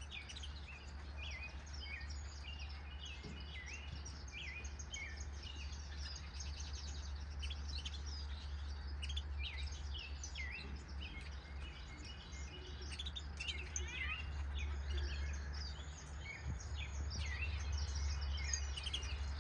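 A flock of aviary finches chirping, many short calls overlapping continuously, over a steady low hum.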